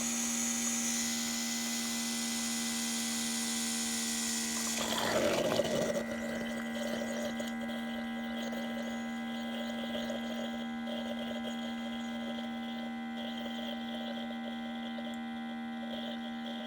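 Bunn Trifecta MB coffee brewer running at the end of its brew cycle: a steady electric hum with a high hiss that stops about five seconds in, a brief louder rush, then the hum carrying on more quietly.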